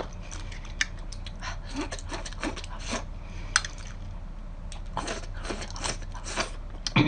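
Close-up eating sounds: chewing and wet mouth smacks with irregular sharp clicks as food is pulled off skewers with the teeth.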